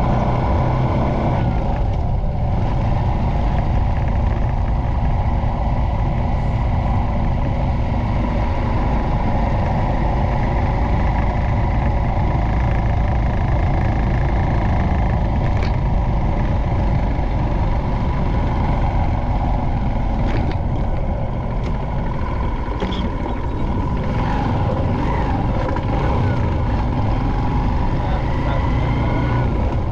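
Motorcycle running steadily at road speed, with heavy wind rumble on the microphone.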